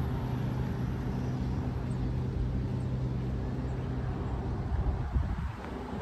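A car engine idling steadily, a low even hum that fades about four and a half seconds in, giving way to wind buffeting the microphone.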